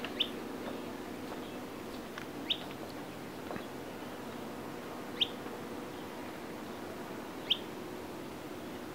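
A bird giving short, high chirps that drop in pitch, one roughly every two and a half seconds, four in all.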